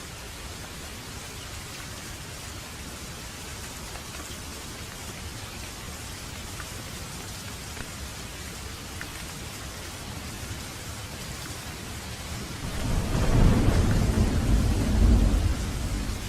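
Steady rain, with a deep roll of thunder swelling up near the end and rumbling for a few seconds before easing off.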